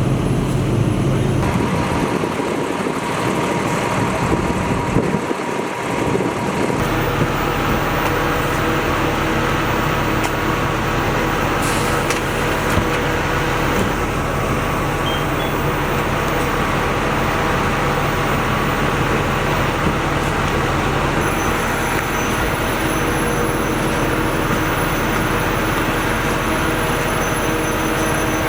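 Fire truck engine running with a steady drone.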